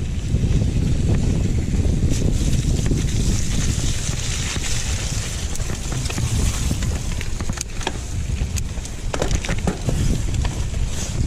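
Downhill mountain bike ridden down a trail: wind buffeting the microphone and tyres rolling over rough ground, with sharp clacks and rattles from the bike over bumps, more of them in the second half.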